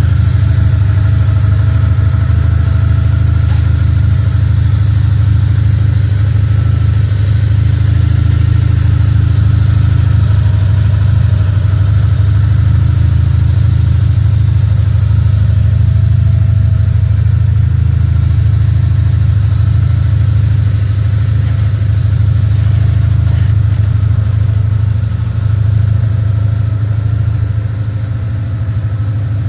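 BMW R1150R's air/oil-cooled boxer twin idling steadily through an aftermarket exhaust silencer, a little quieter near the end.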